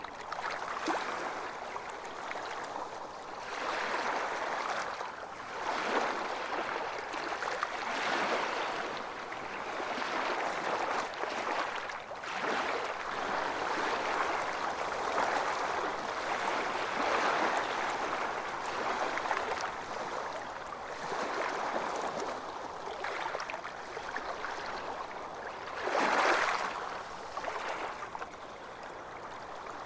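Small waves washing onto a beach, a continuous hiss of surf that swells and ebbs every few seconds, with one larger wave breaking about 26 seconds in.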